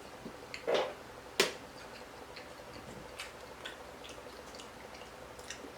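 Quiet eating sounds: scattered soft, sticky mouth clicks and smacks while chewing, with one sharper click about a second and a half in.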